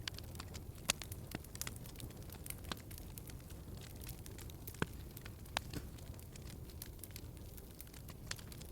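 Wood fire crackling in a fireplace: a low, steady rumble of burning with irregular sharp pops and snaps, a few louder pops about a second in and around five seconds in.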